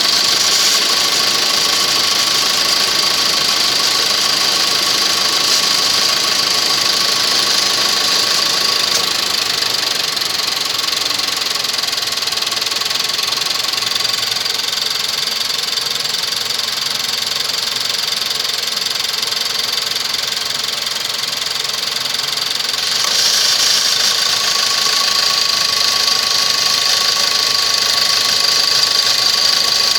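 Nissan MR16DDT 1.6-litre turbocharged engine running at idle with a steady hiss and a high-pitched whine. About nine seconds in a low hum drops away, and from about 23 seconds the sound grows louder and brighter again. The owner is asking about a noise that changes as the air conditioning is switched off and on.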